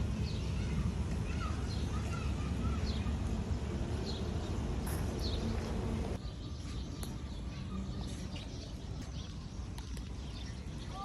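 Small birds chirping with short, scattered calls over a steady low rumble of background noise; the background drops abruptly about six seconds in.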